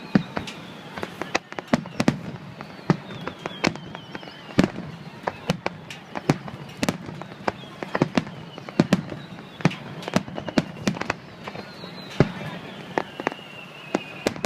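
Fireworks display going off in rapid, irregular succession: many sharp bangs and crackling reports, with whistling tones that slide down in pitch.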